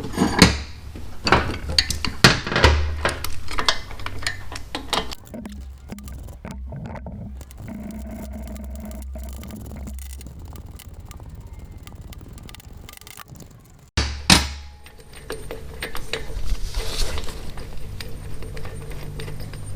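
Hand tools clinking, knocking and scraping on metal as a bolt is worked out of a motorcycle's front engine mount, over a steady low hum. One sharp metal knock about two-thirds of the way in is the loudest sound.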